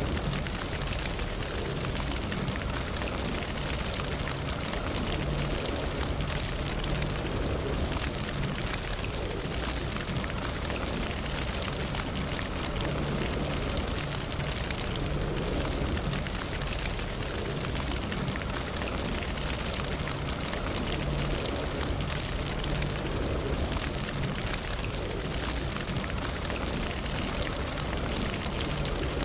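Campfire burning, with steady crackling and frequent small pops over a low, even rush.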